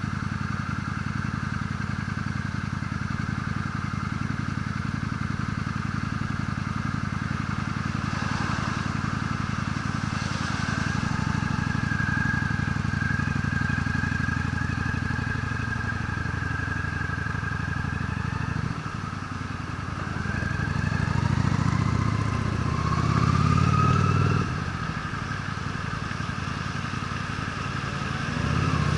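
Honda Steed V-twin motorcycle engine running under way, a steady even rumble at first. In the second half the engine note drops briefly and then climbs twice, as the bike speeds up through the gears.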